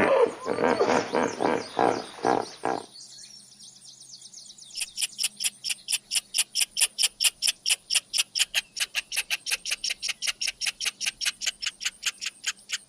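Animal calls in two parts. First comes a fast run of loud pulses, about four or five a second, which stops after about three seconds. After a short pause, a rapid high-pitched ticking call follows, about six evenly spaced pulses a second, and carries on to near the end.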